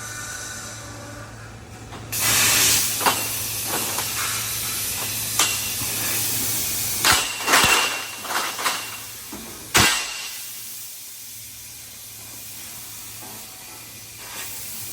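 Laser tube cutting machine running with the hiss of its cutting head's gas jet, which comes on loud about two seconds in and drops back after about ten seconds, with scattered sharp clicks and knocks. A low steady hum runs underneath.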